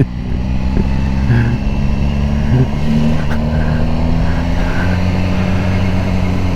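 BMW S1000R's inline-four engine running at a steady cruise, with wind rushing over the helmet microphone.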